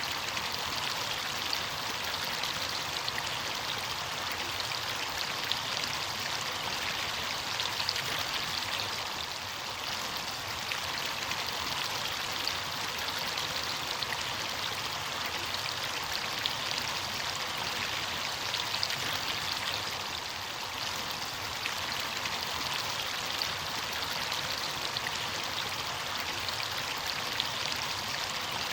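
Running water: a steady, unbroken rush with fine splashing, holding an even level throughout.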